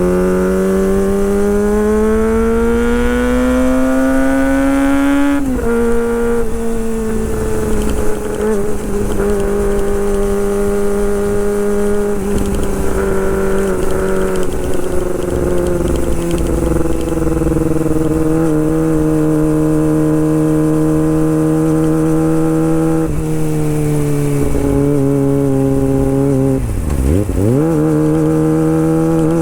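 Kawasaki Ninja ZX-25R's 250 cc inline-four engine pulling with a steadily rising pitch for about five seconds, dropping sharply at an upshift, then running at a fairly steady pitch. Near the end the pitch dips sharply and climbs straight back.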